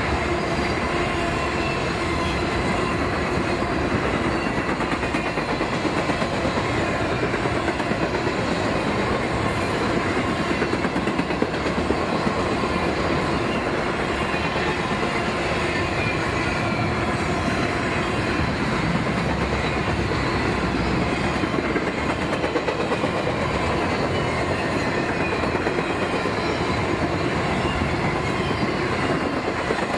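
A train's cars rolling past without a break: a steady loud rumble and rattle of steel wheels on rail, with faint high tones from the wheels over it.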